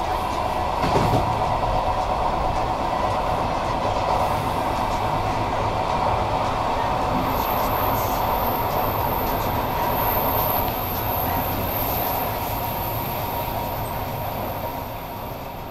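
Passenger train running along the rails: a steady rumble with a held tone, one knock about a second in, and a thin high whine that joins about halfway through. The sound fades away near the end.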